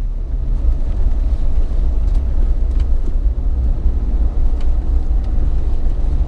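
A Jeep driving on snow- and ice-covered streets: a steady low rumble of engine and tyre noise, with a few faint ticks.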